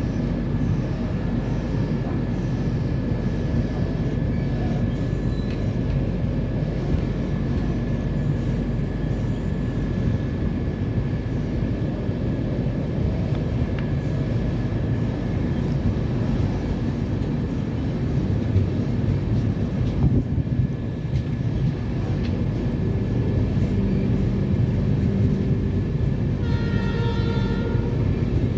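A passenger train running, with a steady rumble of the coach on the track. Near the end a horn sounds briefly.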